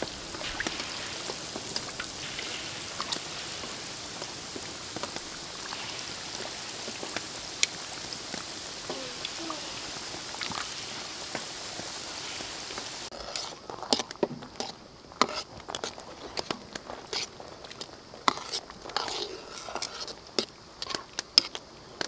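Battered chicken wings deep-frying in hot oil in a wok: a steady sizzling hiss. About two-thirds of the way through it gives way to scattered sharp crackles and pops of dried red chilies frying in a pan.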